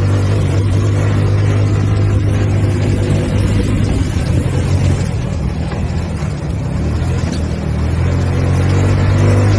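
ATV engine running steadily under way, easing off a little midway and picking up again near the end.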